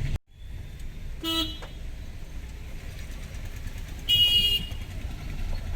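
Two short vehicle horn honks over a steady low traffic rumble: a lower-pitched toot about a second in, then a louder, higher-pitched honk about four seconds in.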